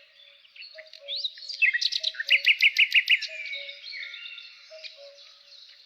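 Several songbirds singing and chirping, with a loud quick run of about six notes a couple of seconds in. Under them a low two-note call repeats about once a second.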